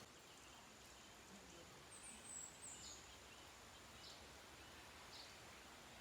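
Near silence: faint outdoor ambience with a few faint, short high chirps, spaced roughly a second apart in the second half.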